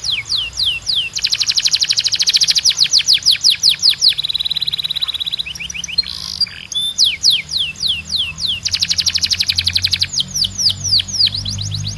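Domestic canary singing: strings of quick falling whistled notes alternating with fast rolling trills, and a short steady buzzing tone about four seconds in.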